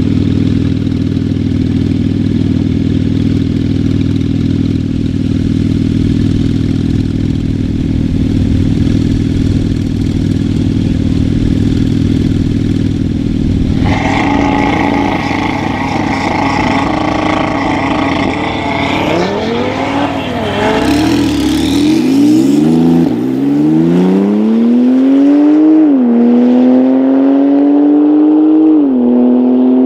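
Porsche 911 Turbo's twin-turbo flat-six and a second car's engine idling side by side at a drag-race start line, turning rougher and louder about halfway through and blipping a few times as the cars get ready to launch. The cars then accelerate hard, the engine note climbing steadily and dropping sharply at two upshifts near the end.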